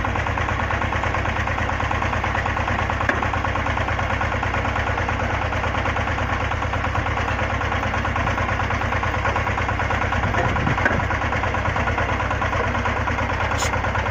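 Engine of a water well drilling rig running steadily at an even speed, with a fast, regular firing beat.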